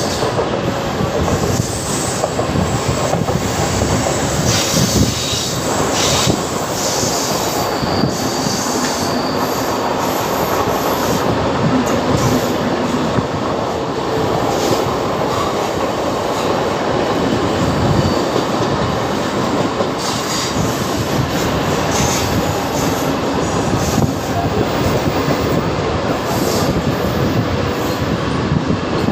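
Mumbai suburban local (electric multiple unit) train running at speed, heard from its open doorway: a steady rumble of wheels on rails with clicks from the rail joints and a few brief, high-pitched wheel squeals.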